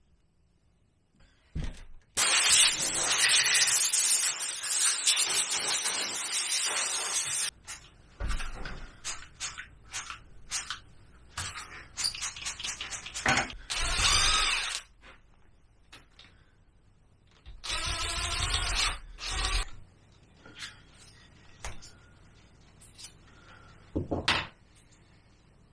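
An aerosol can spraying cleaner onto a scooter engine in one long hiss of about five seconds, starting about two seconds in, followed by many short, irregular bursts of spraying and scrubbing as the engine is cleaned.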